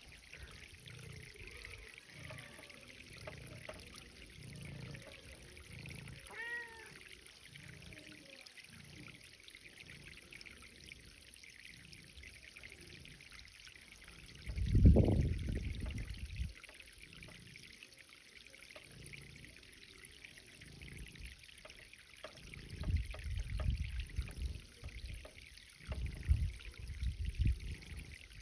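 Garden irrigation water trickling and running steadily, with low rumbling swells throughout, a loud one about halfway through and several more near the end.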